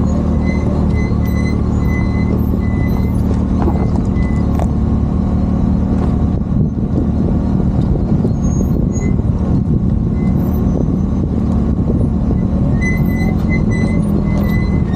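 Vehicle engine running steadily under load with a continuous low drone, while short high-pitched squeaks come and go.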